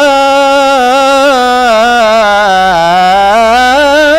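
A solo voice singing an Egyptian religious ibtihal, holding a long melismatic vowel between words with wavering ornaments. The pitch sinks about three seconds in, then rises again near the end.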